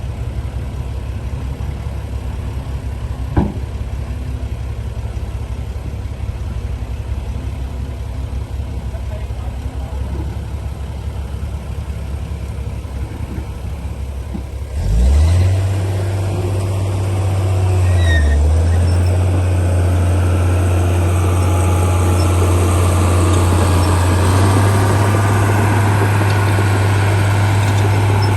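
Heavy diesel engine of earthmoving machinery running with a low rumble. About halfway through it suddenly gets much louder and holds a steady deep drone, with a brief dip in pitch a few seconds later.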